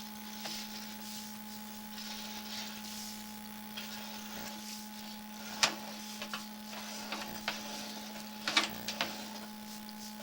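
Steady electrical hum and hiss from a sewer inspection camera rig. A few sharp clicks and knocks come about halfway through and again as a short cluster near the end, as the camera's push cable is worked along the pipe.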